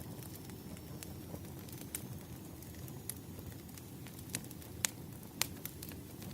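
Wood fire crackling: a steady low rumble of burning logs with scattered sharp pops and snaps, two louder pops about five seconds in.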